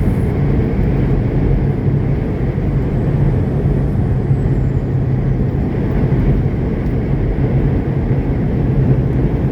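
Semi-truck driving at a steady speed: a constant low engine drone with road noise, unchanging throughout.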